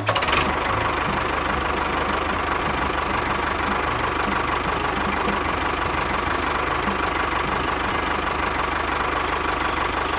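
A small motor running steadily, with a fast low buzz and a faint steady tone.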